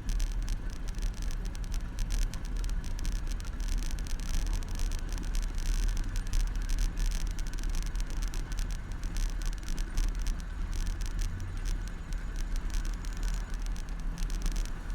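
Bicycle riding over city streets, heard through a handlebar-mounted camera: a steady low rumble of tyres and wind with continual small rattles and knocks from road vibration.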